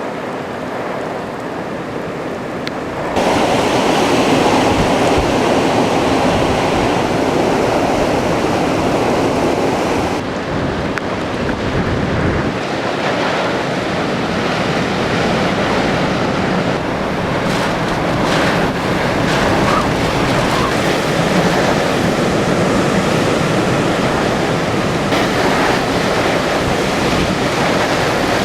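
Typhoon storm noise: strong wind and rushing surf, with wind buffeting the microphone. It grows louder about three seconds in.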